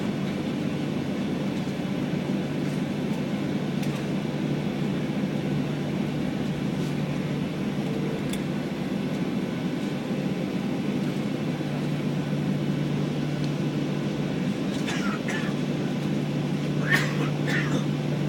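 Cabin noise inside a Boeing 737-800 on the ground after landing: the CFM56 engines run at low power as a steady low hum under an even rush of air and rolling noise. A few faint short sounds come through near the end.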